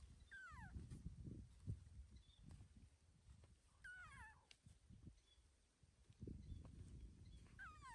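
Baby monkey crying: three short calls falling in pitch, one near the start, one about four seconds in and one near the end, over faint low rustling.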